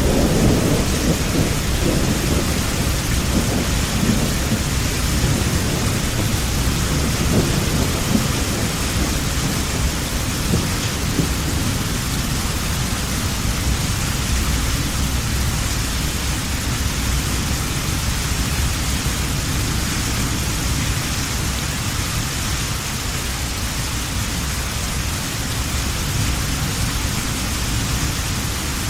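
Heavy rain falling steadily, with a low rumble of thunder in the first third that slowly fades out.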